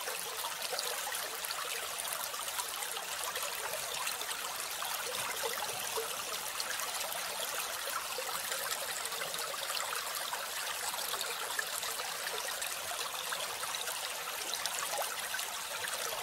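Steady trickling, running water, unchanging throughout.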